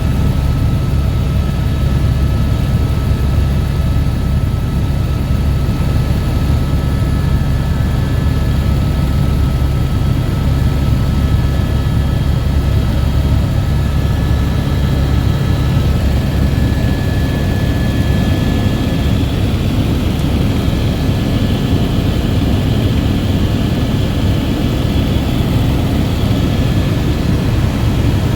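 Helicopter in flight, its engine and rotor running steadily with a deep, continuous drone and a faint high whine.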